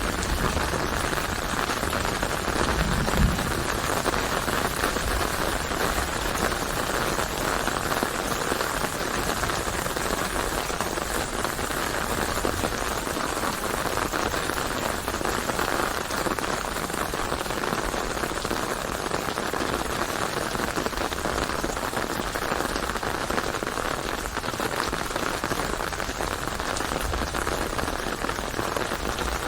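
Steady, dense rain falling on surfaces, an even hiss, with a brief low rumble about three seconds in.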